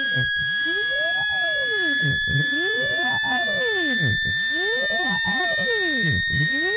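Synthesized speaker-cleaning tones: a steady, high electronic tone slowly rising in pitch, under pitch sweeps that rise and fall about once a second.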